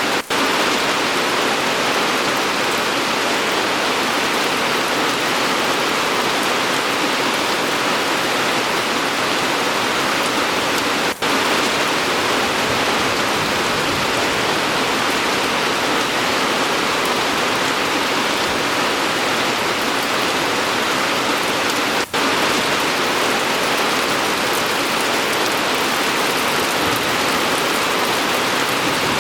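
Steady rain falling, an even hiss of many drops with no thunder. It drops out for an instant three times, about eleven seconds apart.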